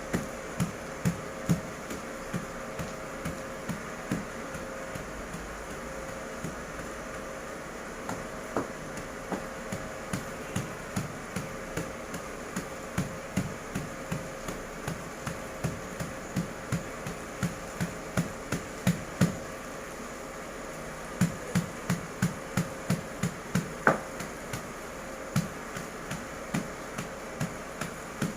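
Repeated dull thumps, about two to three a second, coming in runs with short pauses, over a steady faint hum.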